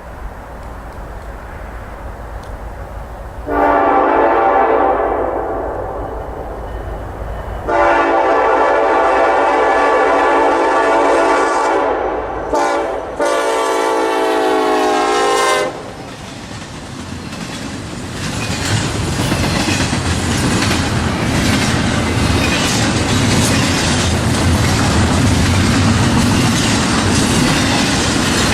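Norfolk Southern locomotive horn sounding the grade-crossing signal: two long blasts, a short one and a final long one. It is followed by the train rolling past, its wheels clacking steadily over the rail joints and growing louder.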